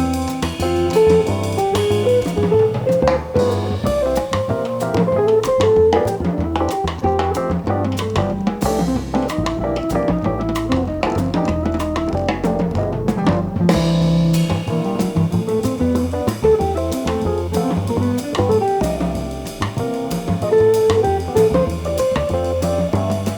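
A jazz band playing live: guitar over bass and a drum kit with cymbals.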